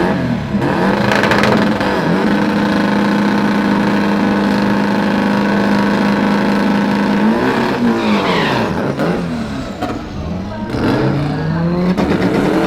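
Drag-racing car engines revving: one is held at a steady high pitch for about five seconds, then the revs swing up and down several times and climb again near the end.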